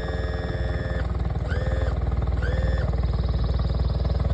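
Mercury 40 HP four-stroke EFI outboard idling steadily, while the electric tilt/trim motor whines, running until about a second in and then in two short bursts.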